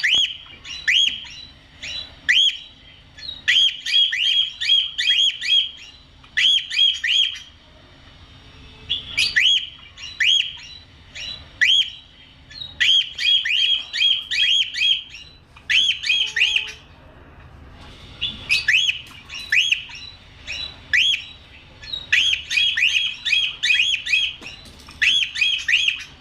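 Cockatiel calling: short, sharp calls that rise and fall in pitch, given in quick runs of several with short pauses between.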